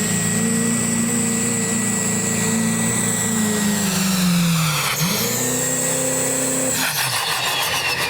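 2005 Chevy pulling truck's engine running at full throttle under heavy load, its pitch slowly sagging as the sled bogs it down, then picking back up about five seconds in. Nearly seven seconds in the engine note drops away as the throttle is released, and a high whine winds down after it.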